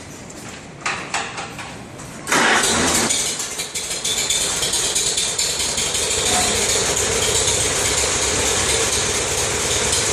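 Farmall C tractor's four-cylinder engine starting about two seconds in after a few short clicks. It runs unevenly for a moment, then settles into a steady run.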